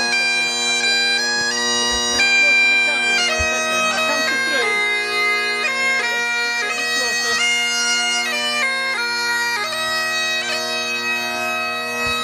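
Bagpipes playing a tune: a steady drone underneath a melody that steps from note to note.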